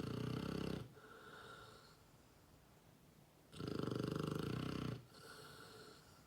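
Seven-month-old Mastiff snoring: a loud fluttering snore ending just under a second in, another about three and a half seconds in, each followed by a quieter breath.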